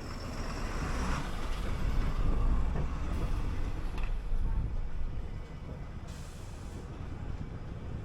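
City bus driving, its engine and road noise a low steady rumble that swells and eases, with a brief hiss about a second in.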